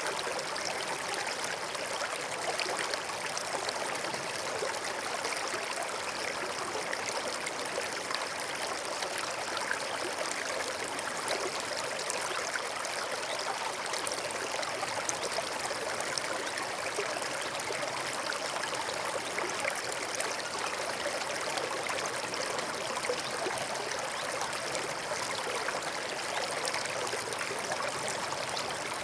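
A small forest stream flowing and trickling over rocks, a steady, even babble of water.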